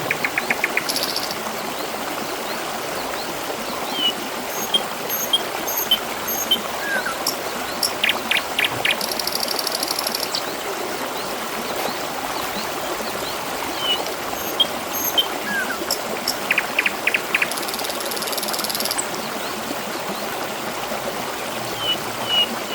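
Water trickling and babbling steadily, with small birds chirping over it: short high chirps and a few quick rattling trills.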